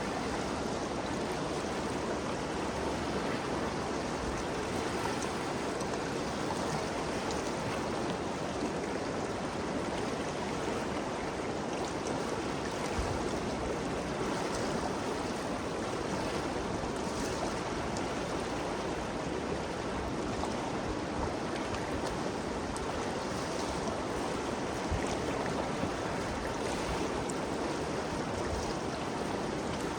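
Ganges River flowing: a steady rushing of water, even and unbroken.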